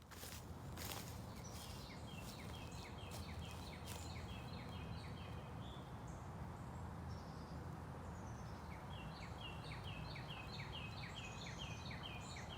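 A songbird singing two runs of quick repeated notes, about three a second, with a few fainter higher chirps between the runs, over a steady low outdoor rumble.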